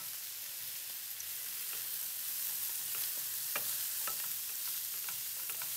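Mushrooms, peas and ginger sizzling in a hot grill pan as a wooden spatula stirs them, a steady hiss with a few sharp clicks, the clearest about three and a half seconds in.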